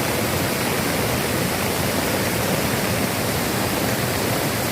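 Heavy rain falling in a steady, dense rush without let-up.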